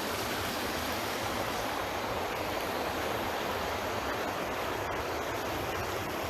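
Steady rush of running water from a mountain stream, an even hiss with no breaks.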